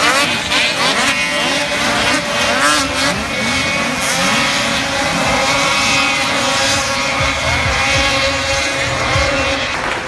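Several two-stroke race snowmobiles revving hard, their engine notes rising and falling in overlapping sweeps as they throttle through the track. From about four seconds in, steadier high engine notes are held.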